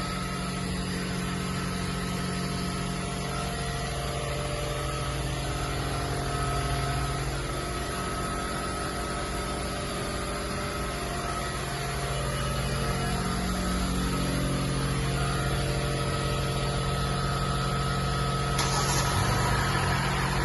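Hyundai Elantra car engine idling steadily, just started with its crankcase freshly refilled with full-synthetic oil. A brief rushing noise joins it near the end.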